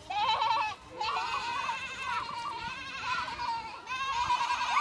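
Sheep bleating: several quavering, wavering calls one after another, a short one at the start, then a long drawn-out one, then another near the end.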